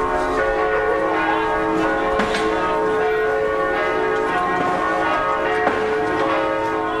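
Church bells ringing, several bells sounding together and overlapping in a steady peal.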